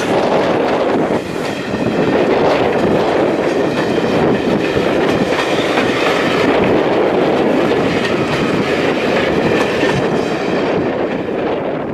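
Railway carriages passing close by, their wheels clattering over the rail joints in a continuous loud rumble that eases slightly near the end.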